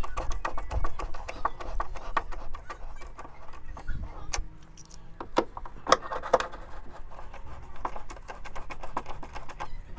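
Irregular clicks and knocks of hand tools and metal fittings being handled while a step is bolted onto a van, with a few louder knocks around the middle.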